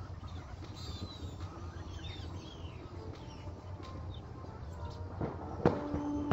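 Small birds chirping in short, curved calls over a steady low rumble, with one sharp knock a little before the end.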